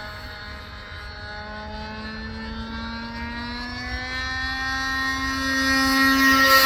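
Engine of a radio-controlled Hot Canary model biplane droning in flight, its pitch and loudness rising gradually as the plane comes closer.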